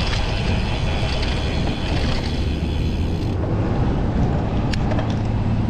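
Wind rushing over the microphone of a camera on a moving road bike: a steady, deep rumble. A couple of faint clicks come about five seconds in.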